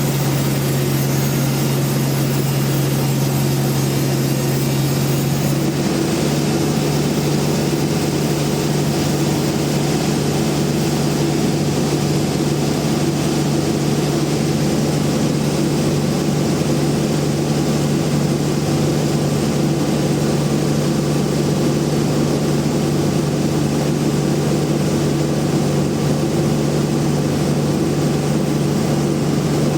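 Large bandsaw mill running with a steady hum, its pitch shifting slightly about five seconds in.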